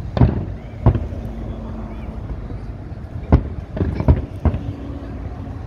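Fireworks exploding in a rapid display: sharp booms, two in the first second and a quicker cluster of about five from three and a half seconds in, over crowd chatter and a low rumble.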